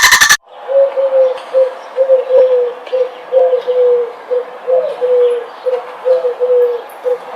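Dove cooing in a steady run of short, low notes, about two a second, with faint chirps of small birds behind it.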